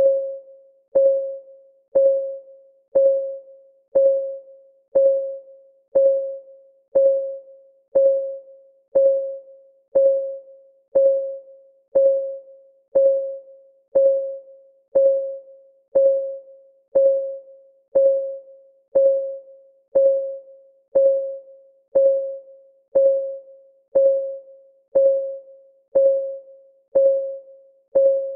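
Countdown timer's clock ticking sound: one tick per second, steady and even. Each tick is a short click with a pitched ring that fades quickly.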